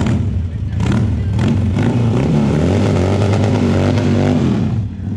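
A motorcycle engine running with its revs rising and falling, and a few sharp knocks in the first second or so. It drops off just before the end.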